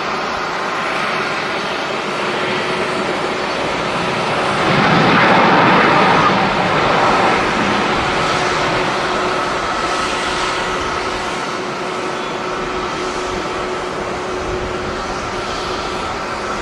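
Jet airliner engine noise, a steady rushing sound with a faint held tone, swelling to its loudest about five seconds in and then easing off.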